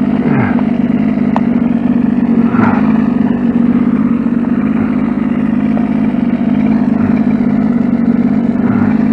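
A steady low motor hum that runs on unchanged, with a few faint short glides and clicks over it.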